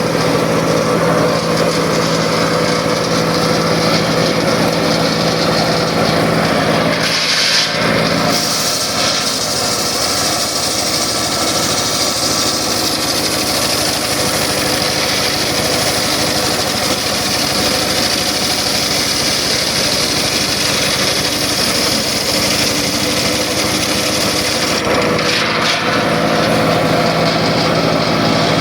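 Circular saw running steadily and cutting through wood. About eight seconds in, the sound turns brighter and hissier as the blade is under load, and it eases back near the end.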